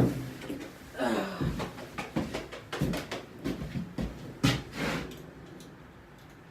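Irregular clicks and knocks of dirt-bike parts being handled and fitted during reassembly, with one louder knock near the middle. A brief voice sound comes about a second in.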